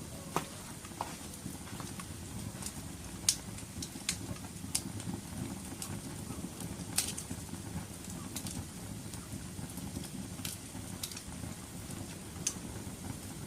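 Wood fire burning in a fireplace: a steady low rumble of flames with irregular sharp crackles and pops, roughly one a second, the loudest a little over three seconds in.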